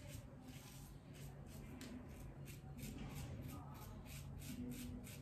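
Double-edge safety razor scraping lathered stubble in short, quick strokes, about three a second, each a faint rasp.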